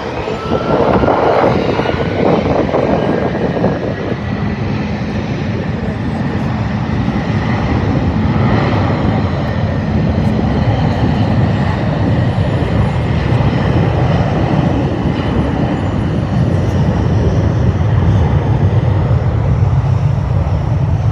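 Jet airliner engines making a loud, continuous rumble as the plane goes by. The deep rumble grows stronger through the second half, and a faint whine rises slightly in the first few seconds.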